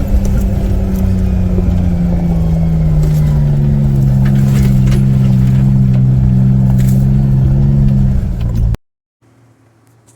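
Off-road 4x4's engine running steadily under load, its pitch falling a little a few seconds in. The sound cuts off suddenly near the end, leaving a much quieter background.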